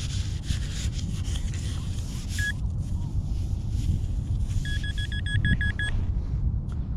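Metal-detector beeps from the Vanquish 440 or the pinpointer during target recovery: one short beep about two and a half seconds in, then a quick run of about eight beeps a little before the end. The beeps sit over a steady low rumble of wind on the microphone.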